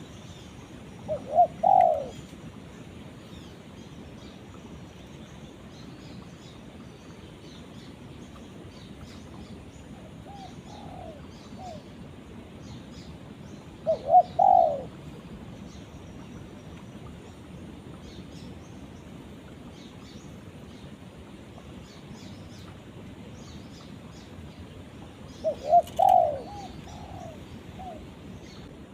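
Spotted dove cooing: four short phrases of a few notes each, spaced several seconds apart, the second one fainter, over a steady background hiss.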